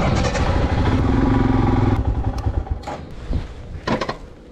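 Royal Enfield Himalayan's single-cylinder engine running at idle, loudest for the first two seconds and then quieter. Two sharp clunks come about a second apart near the end.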